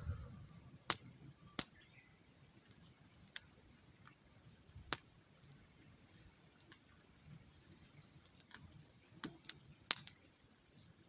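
Wood campfire crackling, with sharp irregular pops and snaps every second or so.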